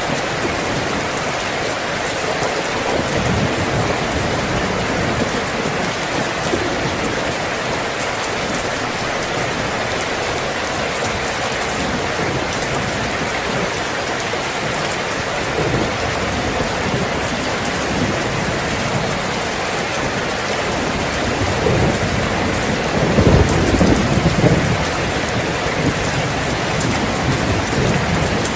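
Steady heavy rain falling, an even hiss. About three-quarters of the way through, a low rumble swells and fades beneath it.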